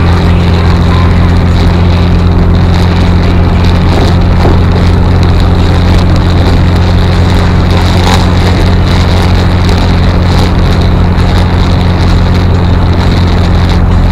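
A VW Thing's air-cooled flat-four engine running steadily at cruising speed, with the hiss of tyres on a wet road.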